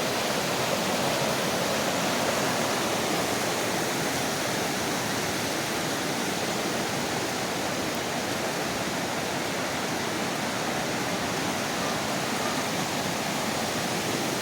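Creek running high after heavy rain: a steady, even rush of fast-flowing water.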